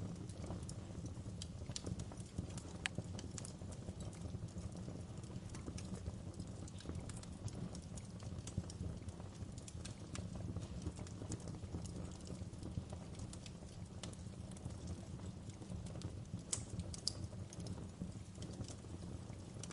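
Wood fire burning in a fireplace: a steady low rumble of flames with irregular sharp crackles and pops from the logs, a few louder snaps among them.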